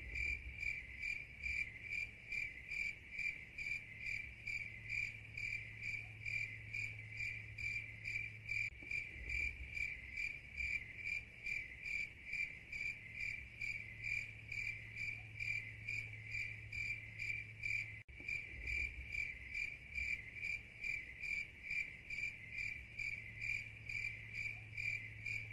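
Cricket chirping in an even, steady rhythm of a few chirps a second, over a faint low hum.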